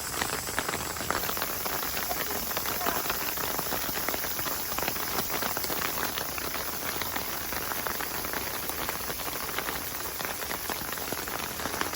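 Steady, dense patter of falling water drops, like rain on a surface.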